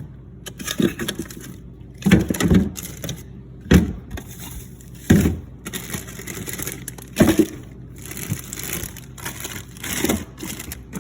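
Plastic-wrapped frozen food packages being handled and shifted in a freezer, crinkling and knocking. About six louder knocks come at uneven intervals, with quieter rustling between them.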